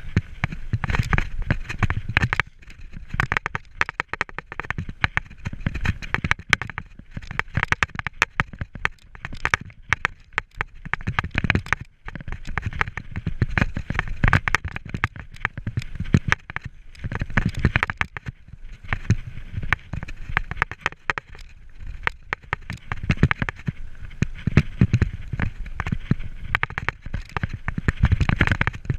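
Mountain bike riding over a rough trail: dense crackling and rattling from the tyres on stones and the bike's parts, over an uneven low rumble.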